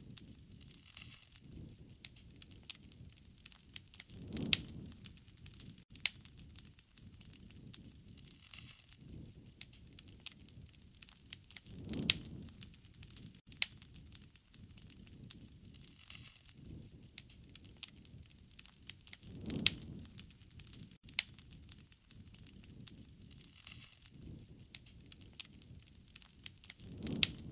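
Wood fire crackling, with frequent sharp pops and snaps. A low rush swells up briefly about every seven or eight seconds.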